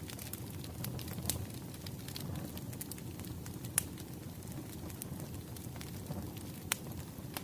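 Wood fire crackling: a steady low rumble of burning logs with scattered sharp pops, three of them louder than the rest.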